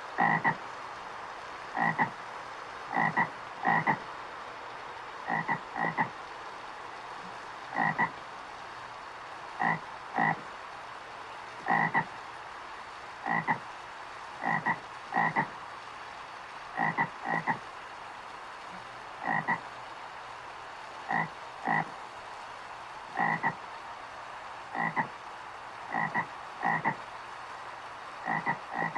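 A frog croaking: short calls, often in pairs, repeated every second or two over a steady faint hiss.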